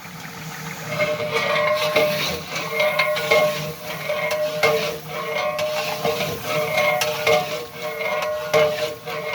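Metal ladle scraping and knocking around a large metal cooking pot, stirring chicken frying in ghee, with the pot ringing at each stroke. The strokes come about one or two a second and grow louder after the first second.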